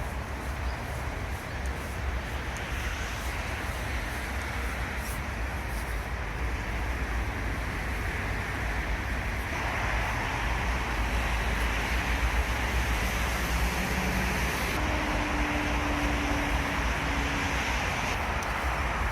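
Steady roar of road traffic, growing louder about halfway through.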